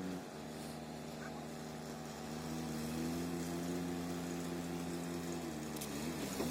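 Wood chipper's engine running steadily; its pitch drops just after the start, climbs back up about two and a half seconds in, and wavers briefly near the end.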